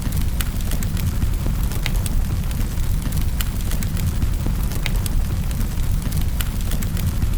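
Wood fire in a fireplace crackling, with sharp pops and snaps scattered over a steady low rumble of the flames.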